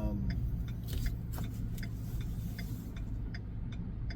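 Regular light ticking, about two to three clicks a second, over a steady low vehicle engine rumble.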